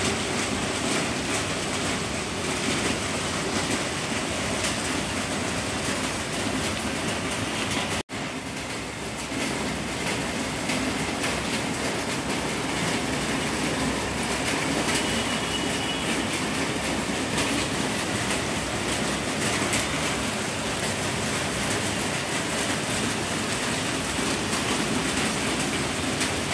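Heavy rain pouring down, a loud steady hiss that drops out for a moment about eight seconds in.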